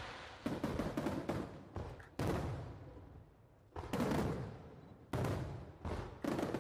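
Aerial firework shells bursting overhead: about ten sharp bangs at irregular intervals, some in quick clusters, each dying away in a rolling echo.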